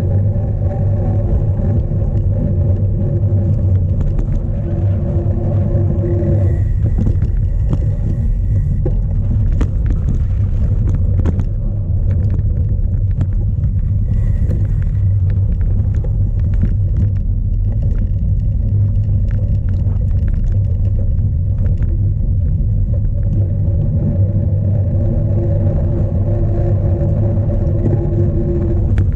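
Strong wind buffeting the microphone of a cyclocross bike's onboard camera as a low, steady rumble. Under it, the bike rattles with many short clicks over rough ground. A steady hum comes in for the first six seconds and again near the end.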